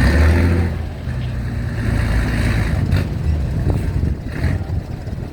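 Heavy vehicle engines running with a steady low rumble, swelling in the first second, with a couple of short knocks later on.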